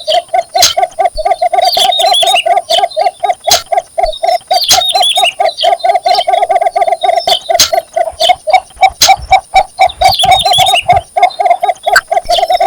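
Male cinnamon bittern calling for a mate: a long, unbroken series of low notes, about five or six a second. Other small birds chirp higher up, and there are scattered sharp clicks.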